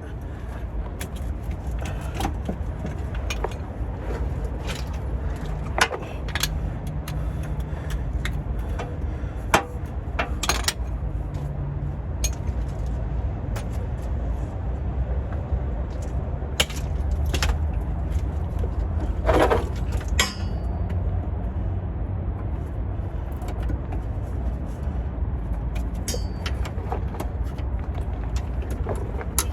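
Scattered metallic clinks and knocks of hand tools and car parts being worked, over a steady low rumble.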